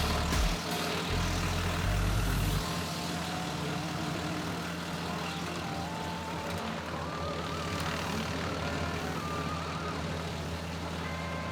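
A tractor engine running at a steady, even note, with background music over it.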